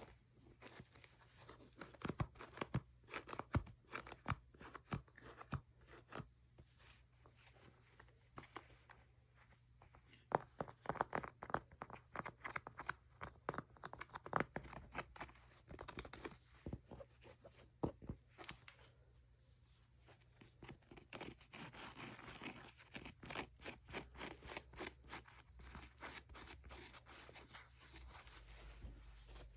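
ASMR triggers on makeup packaging: fingernails tapping and clicking in quick, irregular runs, then, from about two-thirds of the way in, a stretch of scratching and rubbing.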